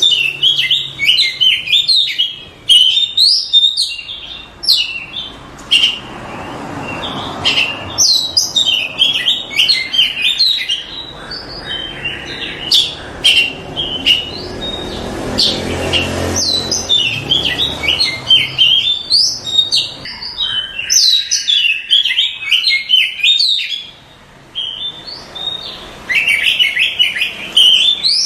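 Oriental magpie-robin (kacer) singing rapidly and continuously, in dense runs of sharp chirps and short whistled notes with brief pauses between the runs.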